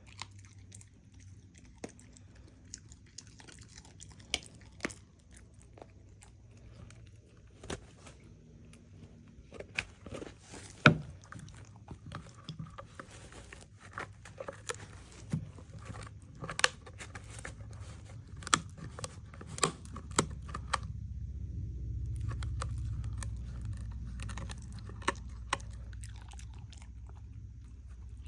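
A dog chewing and biting, with irregular crisp crunches scattered through. A low, steady rumble swells in during the last third.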